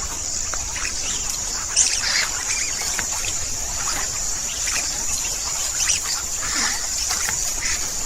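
Wild birds calling: many short chirps and calls scattered over a continuous high-pitched drone.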